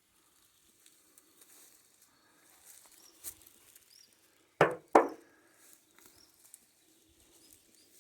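Two loud, short thuds close together about halfway through, over faint scattered ticks and rustling.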